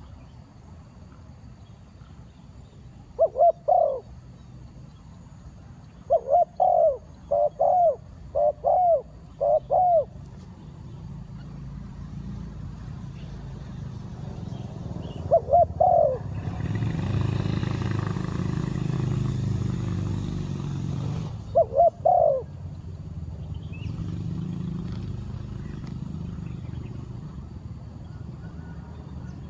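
Spotted dove cooing in short phrases of low, rising-and-falling coos, with a run of them about six to ten seconds in and single phrases later. A rushing noise swells and fades in the middle.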